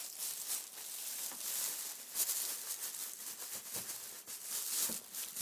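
Irregular crinkling and rustling of new cat toys and their packaging as cats paw at them, dig through them and roll in them.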